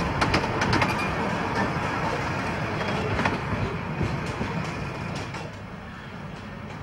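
Miniature railway train's carriages rolling past on the track, with sharp wheel clicks over the rails. The rumble drops away about five seconds in as the train moves off.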